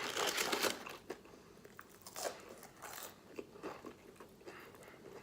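A bite into crispy Popeyes fried chicken, a loud crunch in the first second, then chewing with scattered crunches about once a second.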